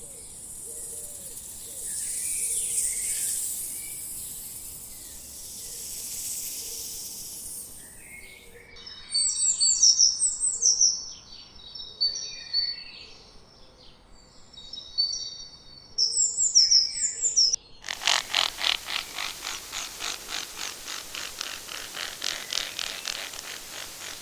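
A string of short animal-sound recordings. The first third is a loud, high hiss with faint chirps in it. Then a songbird gives repeated sharp, high chirping calls, and near the end a fast, even, pulsing trill takes over.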